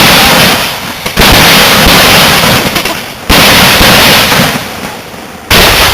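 Homemade aerial firework shells bursting: four loud bangs about two seconds apart, each followed by a hissing, crackling wash that dies away over a second or two.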